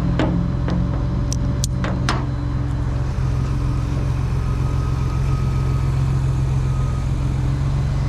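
A motor vehicle's engine running steadily at an even, low drone, with a few sharp clicks in the first two seconds.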